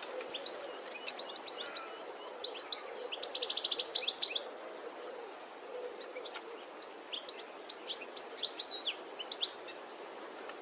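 European goldfinch calls: quick, high twittering chirps, with a fast loud trill about three seconds in and another cluster of chirps about seven seconds in.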